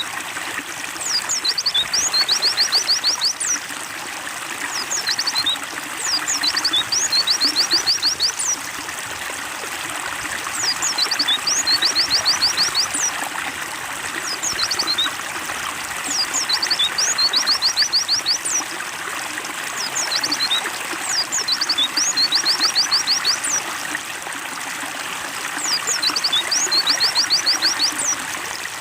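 Steady trickling water with a white-eye (pleci) singing over it: a few falling high notes then a quick run of about eight rapid notes, the same phrase repeated about every five seconds.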